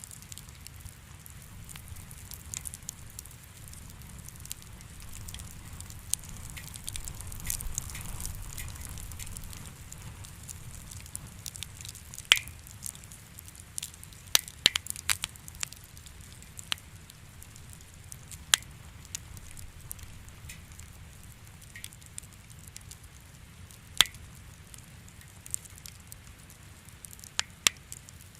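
Wood fire in a fireplace crackling, with irregular sharp pops over a steady low rumble; the loudest pops come about 12 s in, in a cluster around 14–15 s, and about 24 s in.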